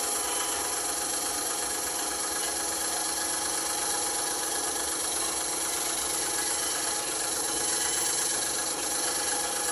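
Band saw running steadily, its motor and blade giving a constant whine with several steady tones over a noisy hum.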